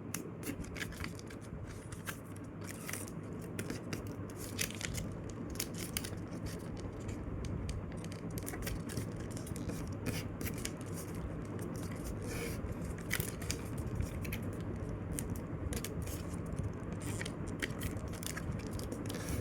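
A paper airplane being folded and creased quickly by hand: an irregular run of short paper scrapes, rustles and crinkles as fingers press and run along the folds.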